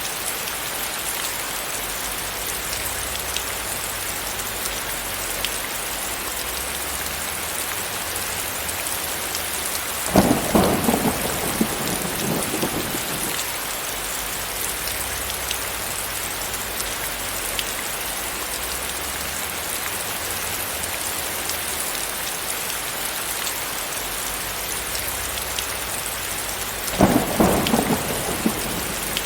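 Steady rain falling as a continuous hiss, with two short rolls of thunder that break in suddenly, one about ten seconds in and one near the end, each dying away over two to three seconds.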